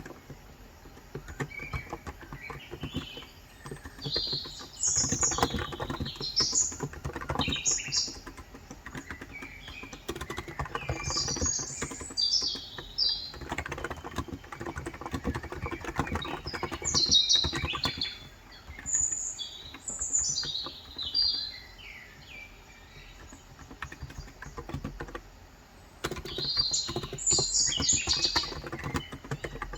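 Typing in uneven runs on a COX Endeavor electro-capacitive tenkeyless keyboard with 35 g switches, the keys clattering in quick clicks with a pause of a few seconds near the end. Birds chirp in repeated high, short phrases over the typing.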